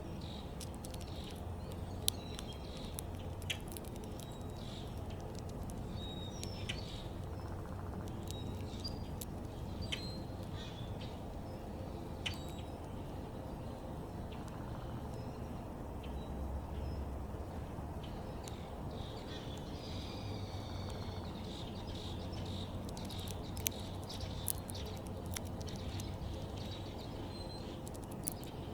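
Small backyard birds chirping in short, scattered calls, with a few sharp clicks, over a steady low background rumble.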